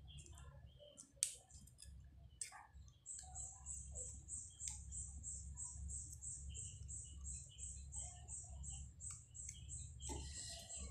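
A bird chirping in the background: one high note repeated steadily, about three to four times a second, starting about three seconds in. Before it, a few faint clicks of pliers working the thin metal edge of a mosquito-coil stand.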